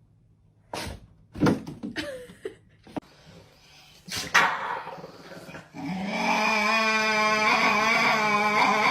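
A dog vocalising: a few short, scattered sounds, then from about six seconds in one long, steady call lasting some three seconds.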